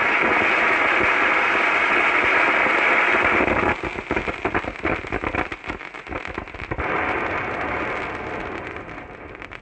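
Pyrotechnic fountain firework spraying with a steady hiss, which breaks into sputtering and crackling about halfway through, then hisses again and dies away near the end as it burns out.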